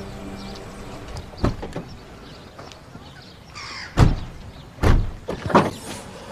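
Car doors being shut: a few light knocks, then two heavy thumps about a second apart, as background music ends at the start.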